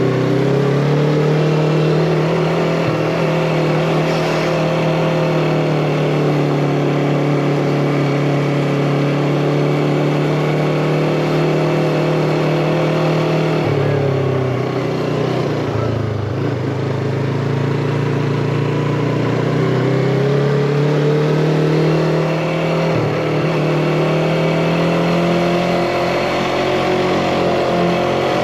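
Yamaha MT-25's parallel-twin engine running under way, heard from the rider's seat. Its pitch holds steady, drops about halfway through, then climbs again toward the end as the bike accelerates.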